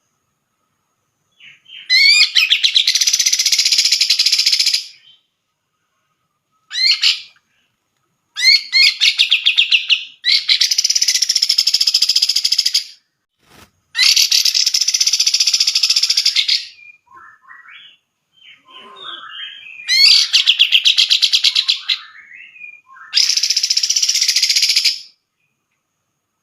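Grey-cheeked bulbul (cucak jenggot) singing loud phrases of rapid, warbling notes a few seconds long, broken by short pauses with a few softer calls between them.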